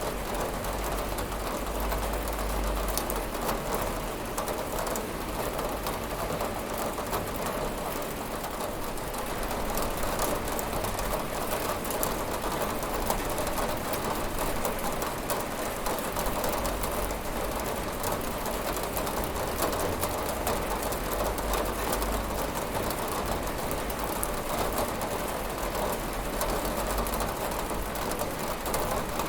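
Steady rain falling on a window: an even wash of noise with many small drop hits, unchanging throughout.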